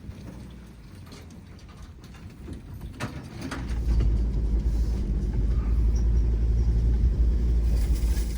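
Ford Ranger towing an off-road trailer along a rough trail, heard from inside. It is fairly quiet at first, with a click about three seconds in, then a loud low rumble from the vehicle starts about half a second later and holds steady.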